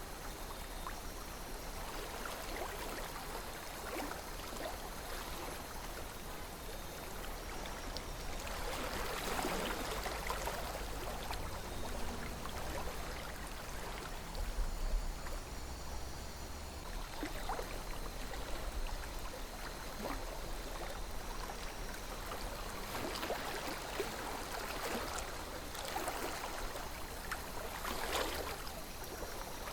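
Calm river flowing, a steady burble of water that swells a little louder several times.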